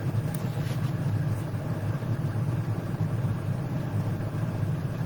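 Steady low rumble in the background, even in level throughout.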